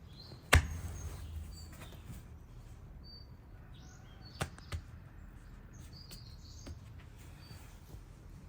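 A single sharp knock about half a second in, then two lighter clicks near the middle, over faint high bird chirps.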